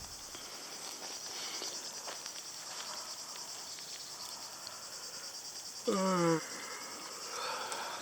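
Insects chirring steadily in a high, rapid pulsing chorus. About six seconds in, a brief human voice makes a short sound of about half a second.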